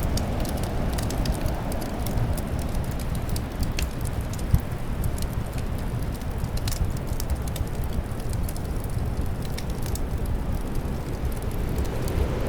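Winter wind and a crackling log fire: a low, steady rush of wind under scattered sharp crackles and pops, with one louder pop about a third of the way in.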